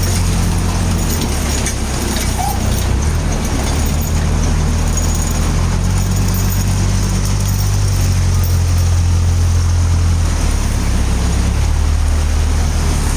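A large engine running steadily, its low hum shifting in pitch a few times.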